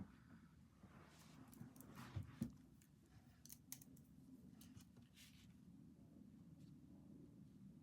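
Faint desk-work sounds over quiet room tone: a couple of soft knocks about two seconds in, then a few light, sharp clicks.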